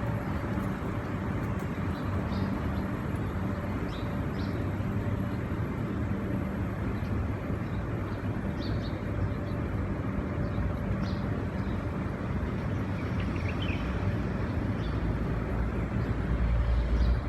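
Steady street traffic noise with a low engine hum, and a louder vehicle rumble swelling near the end. Faint short high chirps come through it now and then.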